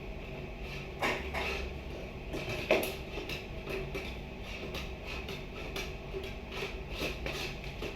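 A string of light clicks and knocks of hard objects being handled, with two louder knocks, about a second in and just before three seconds in.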